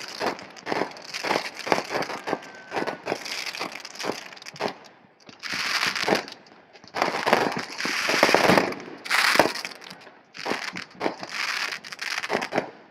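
Fireworks crackling: a string of sharp pops and cracks, with denser bursts of crackling in the middle.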